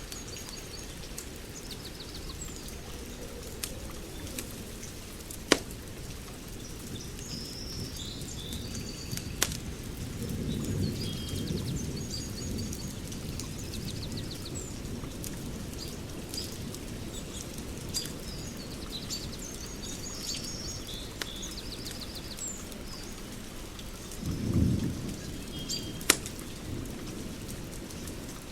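Wood fire crackling and hissing steadily, with a few sharp, loud pops. Birds chirp in the background, and two low rumbles swell up, one about ten seconds in and a shorter, louder one near the end.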